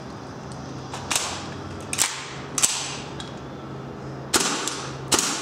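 Airsoft gun firing single shots: five sharp cracks at irregular intervals, each with a short echoing tail.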